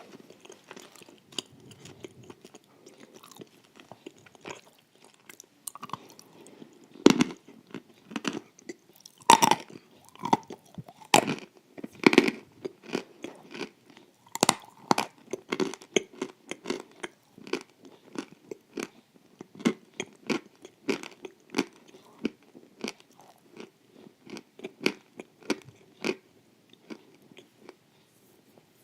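Close-up eating sounds: crisp wafers layered with sour cream and cream being bitten and chewed, a rapid run of sharp crunches with louder bites now and then.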